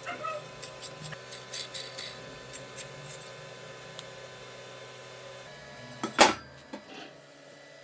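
A small electric motor hums steadily with light ticks and clinks over it, then cuts off about five and a half seconds in; a single loud knock follows shortly after.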